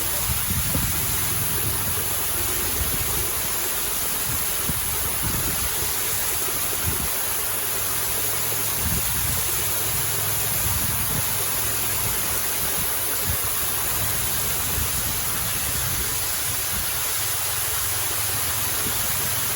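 Waterfall's falling water rushing steadily, an even roar with no breaks.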